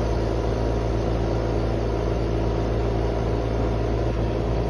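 Steady hum of a running outdoor air-conditioning condensing unit, its compressor and fan drone unchanging, with several even low tones.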